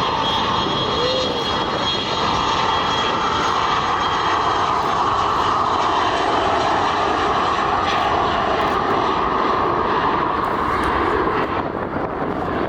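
Airliner's engines passing close by: a loud, steady rushing roar that eases off near the end.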